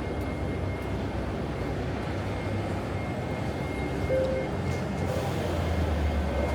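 City street traffic noise: a steady wash of vehicles, with a low rumble from a heavier passing vehicle swelling near the end.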